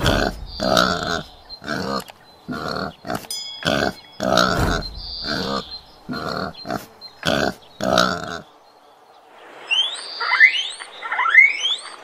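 Wild boar giving a run of short, rough grunts, about two a second, for some eight seconds. Near the end, guinea pigs wheek: several quick whistles, each rising in pitch.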